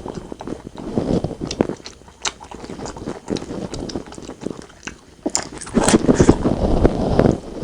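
Close-miked chewing and biting of braised pork belly and rice, with irregular wet clicks and smacks. It quietens briefly in the middle and gets louder again in the last couple of seconds.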